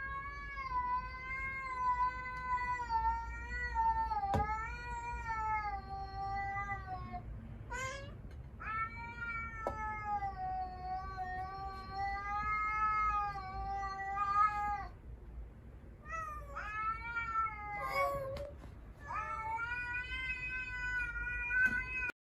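Cat yowling in a territorial standoff: a few long, wavering cries of several seconds each, with short breaks between them.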